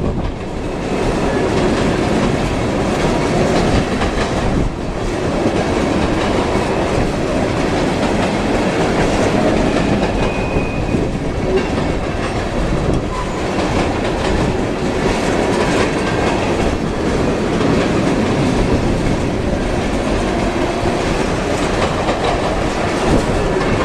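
Freight train of ethanol tank cars rolling past, a steady loud rumble with wheels clacking continuously over the rail joints.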